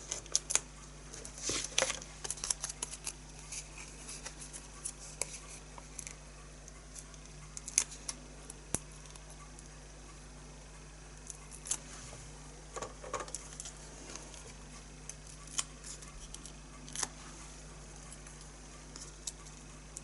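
Paper and card being handled at a craft table: scattered light clicks, taps and crinkly rustles, in small clusters, over a faint steady hum.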